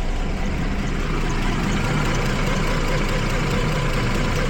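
Jeep Liberty V6 engine idling with two cylinders, 1 and 5, dead-misfiring, a sign of a weak secondary ignition system that lets spark jump outside the cylinder after it got wet.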